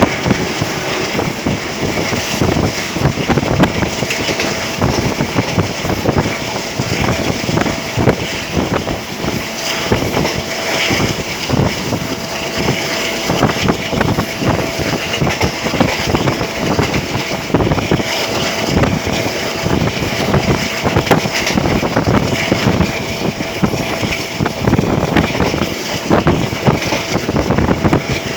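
Moving train: a steady rumble and rattle of the running gear on the track, with wind buffeting the microphone and a faint steady hum underneath.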